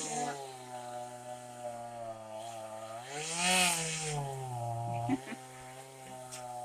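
Two-stroke chainsaw running some distance off, its engine pitch rising and falling as it is revved. The loudest rev-up comes about halfway through, then it drops back to a steadier pitch.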